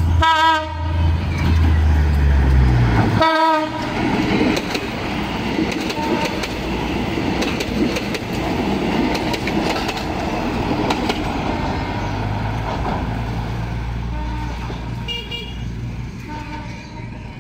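PNR diesel train sounding two short horn blasts about three seconds apart over a deep engine rumble, then passing with a long, loud rattle and clatter of wheels on the rails that slowly fades.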